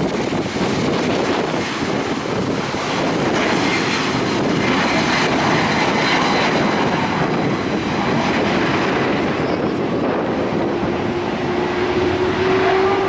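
Jet airliner engines running loudly as the plane passes, a steady rushing noise with a faint high whine, and a low tone that rises slightly near the end.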